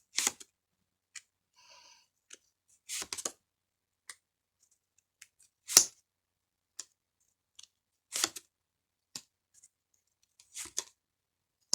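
Tarot cards being handled and laid out: scattered short snaps and rustles of card stock, about ten in all, the sharpest about six seconds in.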